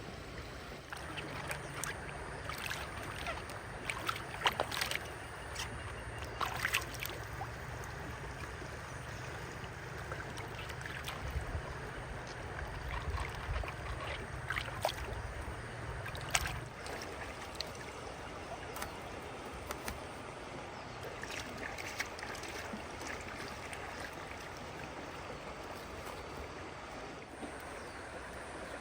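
Water sloshing and trickling, with scattered clicks and knocks. A low hum runs through the first half and stops suddenly about sixteen seconds in.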